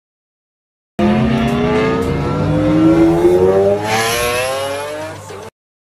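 Lamborghini Centenario's V12 accelerating hard, starting about a second in with its pitch climbing steadily. The pitch drops briefly at an upshift near the middle, then climbs again before the sound cuts off suddenly.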